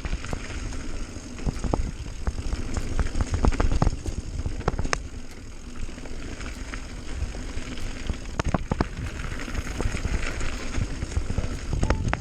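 Bike riding down a dirt trail: a steady low rumble of wind and tyre noise, with frequent sharp clicks and rattles from the bike over rough ground.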